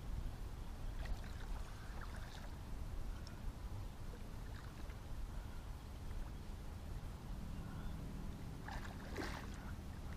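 Water lapping and sloshing against a fishing boat's hull over a low, steady rumble, with a brief louder noise about nine seconds in.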